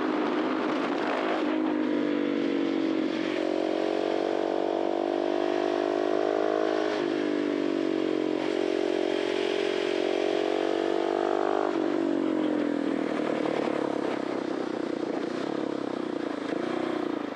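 KTM 690 SMC R's 693 cc single-cylinder four-stroke engine through an Arrow titanium exhaust, ridden under way: the revs hold fairly steady for several seconds, then drop off about twelve seconds in as the bike slows, leaving a lower, uneven burble.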